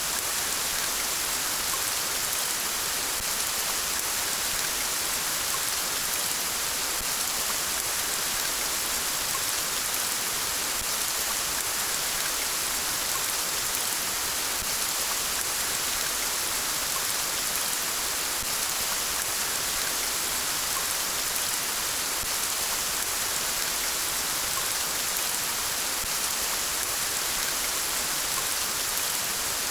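Steady rain falling: an even, unbroken hiss of drops with no thunder.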